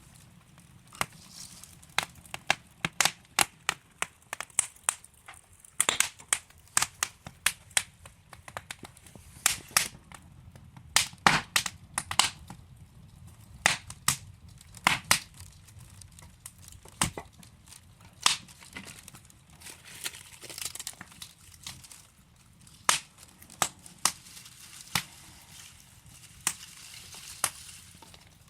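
Wood fire crackling: burning logs giving off irregular sharp pops and snaps over a soft hiss, busiest in the first half.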